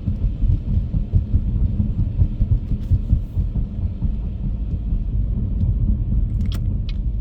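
Low, steady rumble of a car driving, heard from inside the cabin: engine and road noise. Near the end a regular clicking starts, a few clicks a second.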